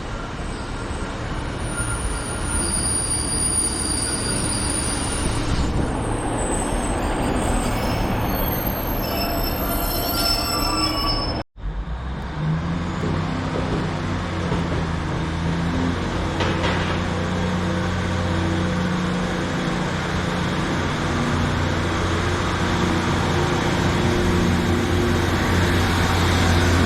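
A train at a station platform, its wheels or brakes squealing in several thin high tones over the running noise. After a sudden cut about halfway through, a train's engine or traction hum runs steadily and low.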